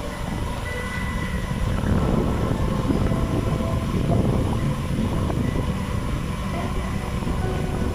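Wind buffeting the phone's microphone while riding a bicycle, a continuous fluttering low rumble mixed with the rolling noise of the bike.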